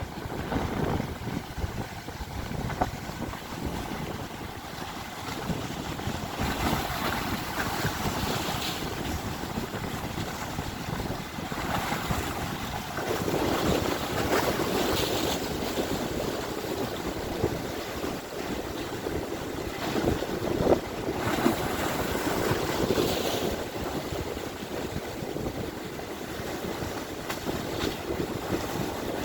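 Sea waves washing in slow swells, with wind buffeting the microphone.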